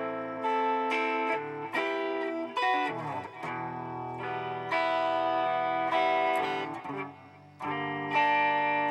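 Electric guitar chords played through a BOSS DD-8 digital delay pedal in Warp mode, the notes ringing on and overlapping as the repeats build. There is a downward pitch smear about three seconds in, and near the end the sound fades briefly before swelling back up.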